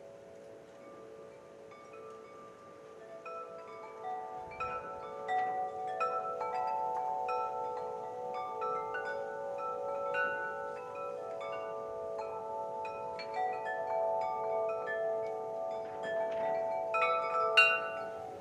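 Wind chimes ringing: many struck tones that ring on and overlap. They start sparse and grow busier about four seconds in, with a cluster of bright strikes near the end.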